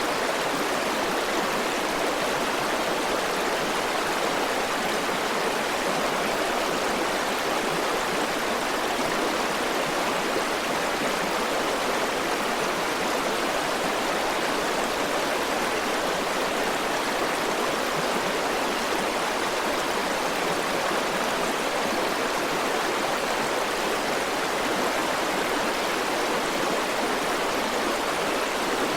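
River water flowing over rocks: a steady, even rush with no breaks or separate splashes.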